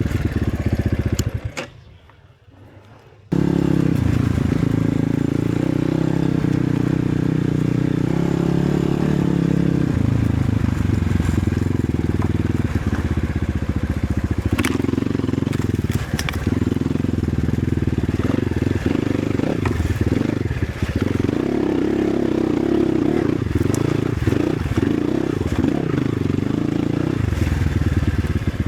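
Enduro motorcycle engine running while riding along a trail, with scattered clicks and knocks over the engine note. The sound drops away briefly about two seconds in, then the engine resumes.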